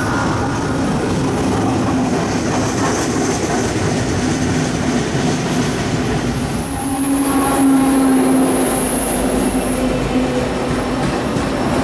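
Train rolling past: the steady rumble of railcars on the rails, with steel wheels squealing high against the rail, loudest from about six and a half to ten seconds in.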